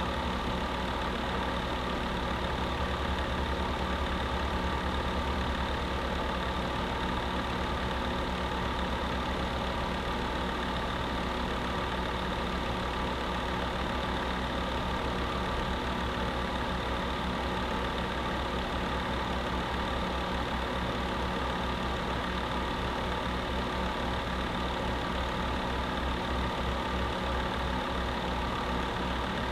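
Space heater running: an even whir with a strong low hum and a few fainter steady tones, never changing.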